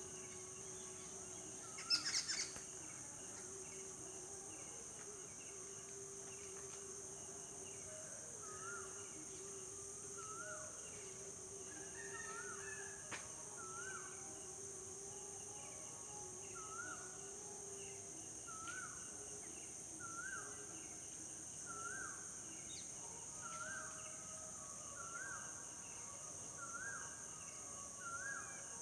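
A steady, high-pitched chorus of crickets or other insects, with a bird repeating a short rising-and-falling note about every one and a half seconds through the second half. A brief loud sound comes about two seconds in.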